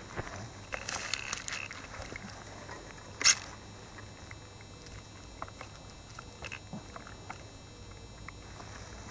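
Faint scattered clicks and light taps, busiest about a second in, with one sharper click about three seconds in.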